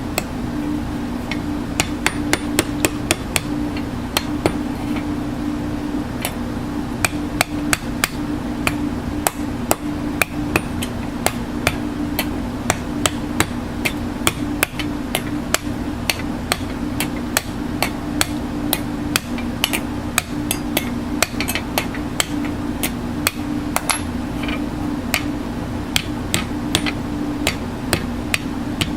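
A hand hammer tapping many times with light, sharp strikes in quick irregular runs, over a steady low machine hum.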